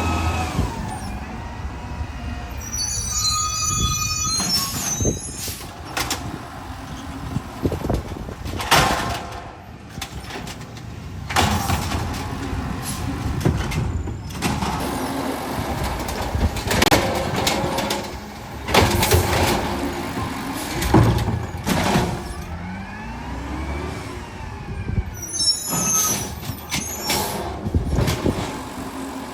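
Garbage truck working: its engine runs and rises and falls in pitch, with high squeals twice and repeated sharp metal bangs and clanks.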